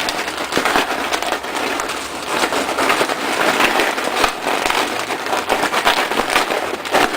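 A hand digging through a cereal box, crinkling the plastic liner bag and rattling the dry cereal in a dense, unbroken run of crinkles and rattles while searching for the toy prize inside.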